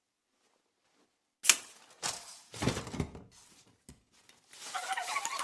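Spider-creature sound effects played one after another: a sharp click about a second and a half in, then several short scratchy bursts, the last one longer.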